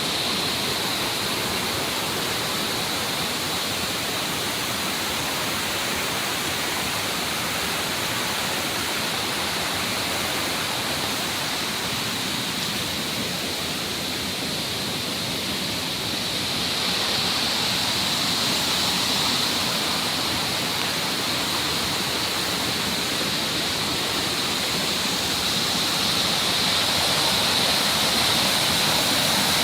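Mountain stream water rushing and splashing over rocks, a steady hiss with slow swells in level.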